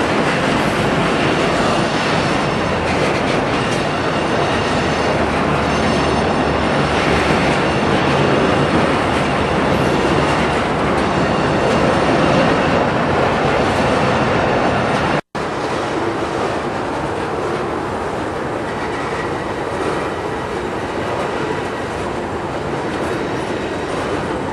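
Train rolling along the rails, a steady loud noise of wheels and cars. The sound drops out for an instant about fifteen seconds in and comes back a little quieter.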